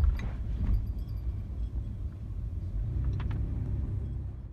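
Low road and engine rumble inside a moving car, with a few faint clicks; the sound cuts off suddenly at the very end.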